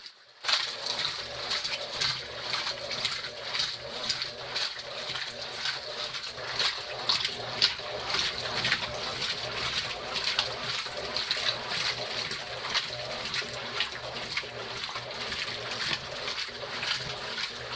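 Consul Facilite 11 kg top-loading washing machine in its wash cycle, laundry churning and sloshing in the water with an irregular run of swishes and scrapes over a faint motor hum.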